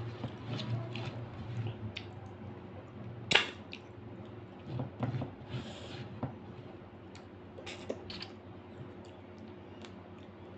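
Close-miked eating sounds of a person eating rice and dal by hand: chewing and wet mouth smacks, with soft squishes of fingers mixing the food on the plate. One sharp smack about three seconds in is the loudest sound.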